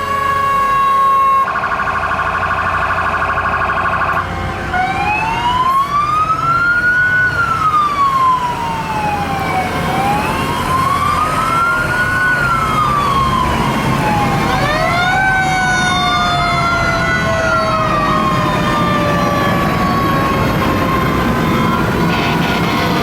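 Fire truck sirens: a fast warbling yelp for a couple of seconds near the start, then a slow wail rising and falling about every five seconds, with a second siren overlapping it from about two-thirds of the way in.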